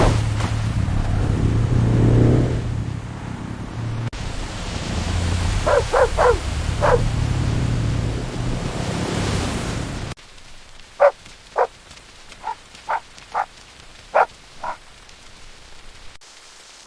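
Dogs barking over the steady hiss of heavy rain, with a quick run of four barks partway through. The rain noise then cuts off, and a dog barks about eight more times in spaced single barks.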